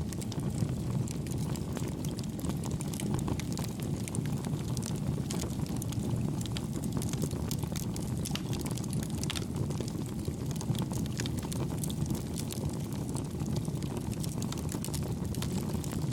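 Campfire burning, with a steady low rush of flame and frequent small, soft wood crackles throughout.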